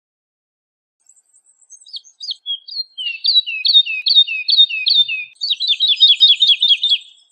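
Woodlark singing. A few soft notes lead into a run of repeated falling whistled notes, about two to three a second. Near the end they speed up into a quicker trill of about five notes a second.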